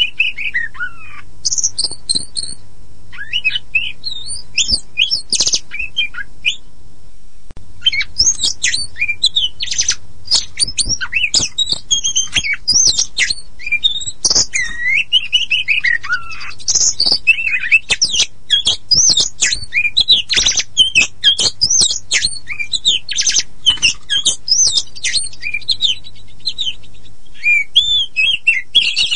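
Oriental magpie-robin of the black-and-white 'kacer poci' form singing a fast, varied song of whistles, rising and falling notes and sharp clicks, with a short break about seven seconds in, over a faint low hum.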